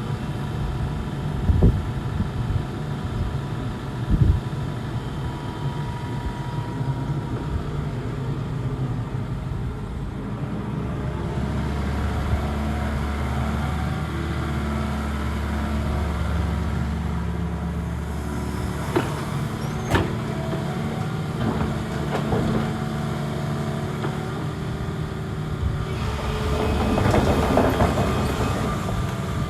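Hitachi ZX85US-3 midi excavator's diesel engine running steadily, with a deeper low hum for several seconds midway and a few sharp knocks.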